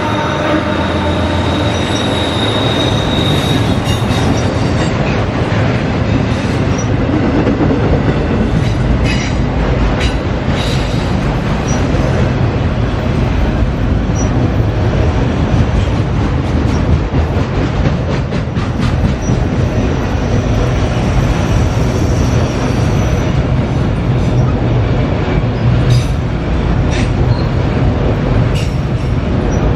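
Freight train cars rolling past on the rails: a steady, loud rumble of wheels on track, with a high wheel squeal near the start and scattered clicks as wheels cross rail joints.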